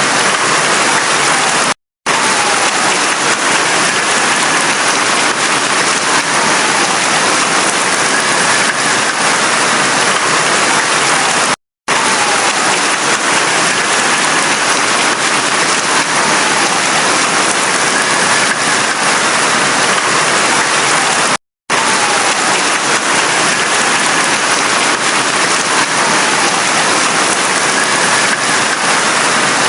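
Heavy rain falling steadily, an even hiss of water. Three times, about ten seconds apart, it cuts to silence for a split second and comes straight back.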